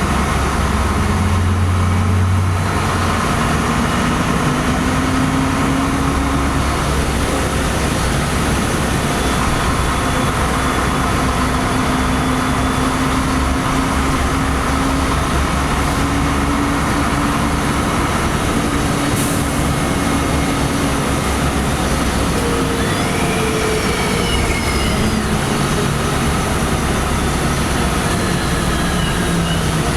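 Inside a LiAZ-5256 city bus on the move: steady engine and road rumble, with a faint whine that rises and falls in pitch as the bus speeds up and slows. A few short high squeaks slide in pitch near the end.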